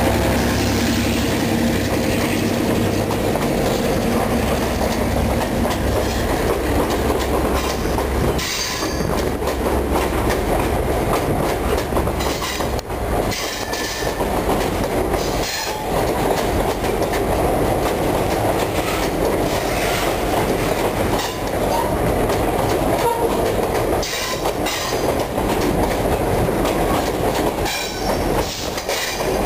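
Diesel freight train passing close alongside: the hum of the last of its two diesel locomotives goes by for the first several seconds, then the train's empty hopper cars roll past with wheels clicking over the rail joints and an occasional squeal.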